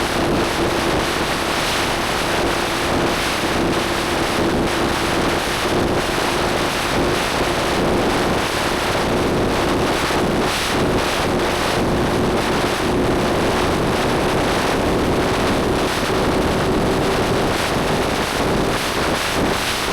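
Motorcycle engine running at steady cruising revs, a constant drone that holds its pitch throughout, under heavy wind noise on the microphone.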